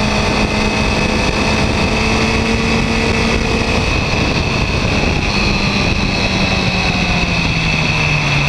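Yamaha R1 inline-four engine running at a steady pitch. From about halfway through, its note falls steadily as the revs drop.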